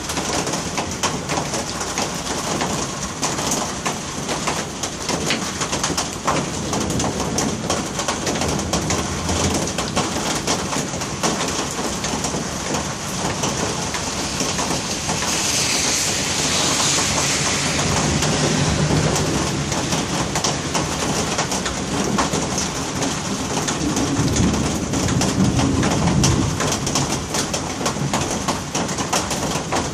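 Heavy rain pouring steadily onto a street in a thunderstorm, pattering and splashing, with a louder hiss for a few seconds around the middle. Low rumbles of thunder come in the second half, the loudest near the end.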